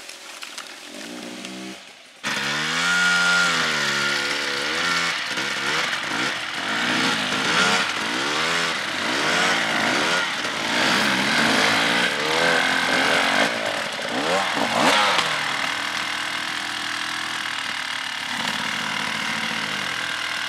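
Enduro motorcycle engine revved hard and let off again and again while the bike works through rough terrain, its pitch rising and falling about once a second. It turns suddenly louder about two seconds in, and near the end settles to a steadier, lower note.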